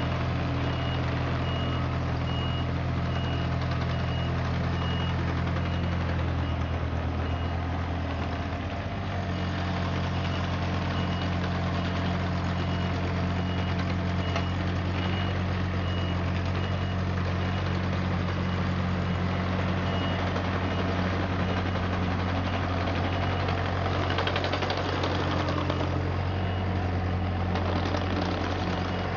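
John Deere 35ZTS compact excavator's diesel engine running steadily, its note shifting about nine seconds in, with its high warning alarm beeping evenly through about the first two-thirds.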